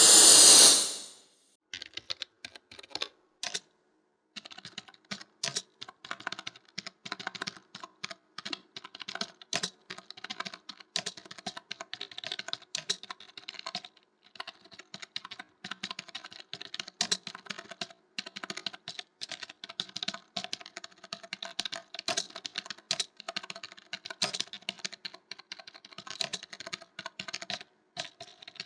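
Typing on a computer keyboard: fast, irregular key clicks with a few short pauses, starting about two seconds in after a loud noisy sound fades out.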